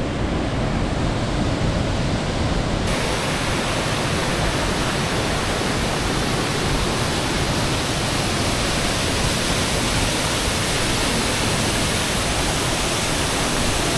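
Waterfall pouring heavily in flood after rain, a steady loud rush of falling water. About three seconds in the sound suddenly turns brighter and hissier.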